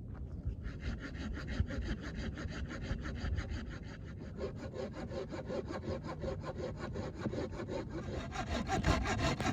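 Hand saw cutting through firewood with quick, even back-and-forth strokes, about five a second, getting louder near the end.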